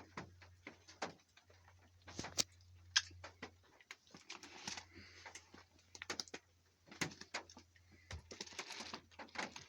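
A pet bird moving about, making irregular sharp taps and clicks with short rustling bursts, over a steady low hum.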